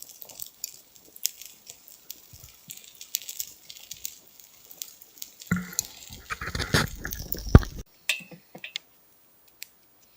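Small campfire crackling with scattered sharp pops. For about two seconds past the middle, a louder stretch of rustling and crunching noise cuts off abruptly.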